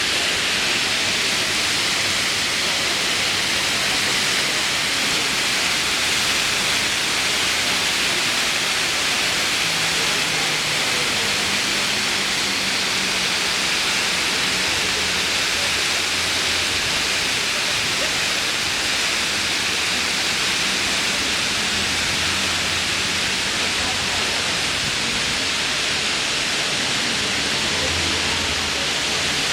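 Fountain water jets splashing down in a steady hiss of falling water.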